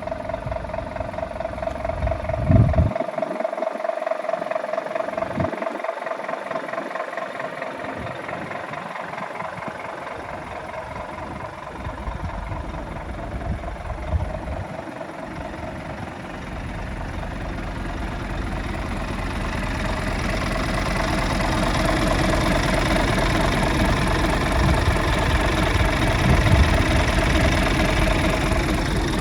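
Scania G360 truck's six-cylinder diesel engine idling steadily, growing louder over the second half.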